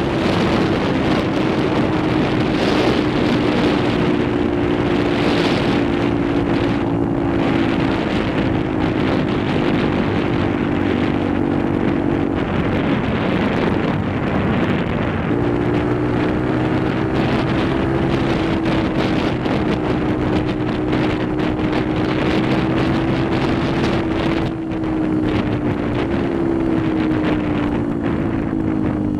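Benelli TNT 125's single-cylinder four-stroke engine humming at a steady cruise under heavy wind rush on the microphone. The engine note drops away for a couple of seconds about halfway through, returns, and its revs fall near the end.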